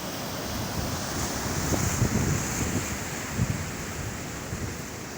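Sea surf washing onto the shore, swelling about one to three seconds in, with wind buffeting the microphone.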